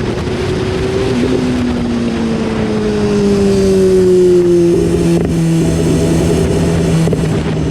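BMW S1000RR inline-four engine under way, with wind noise. The engine note steps up about a second in, then falls slowly over the next few seconds and holds steady.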